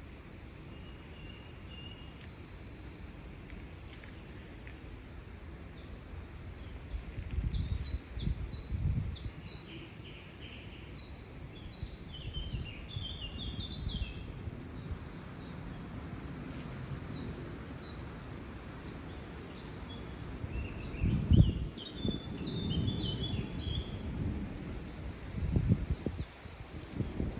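Several birds chirping and trilling in short scattered phrases over a steady outdoor hiss. A few low rumbling gusts come through, the loudest about two-thirds of the way in.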